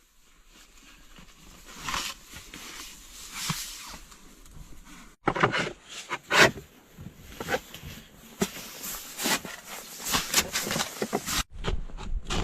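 Irregular crunching and scraping sounds, with two abrupt cuts.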